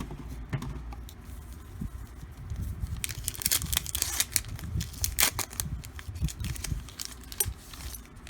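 A football-card pack wrapper being torn open and crinkled, with the cards rustling, heard as a run of quick sharp crackles that is busiest from about three seconds in.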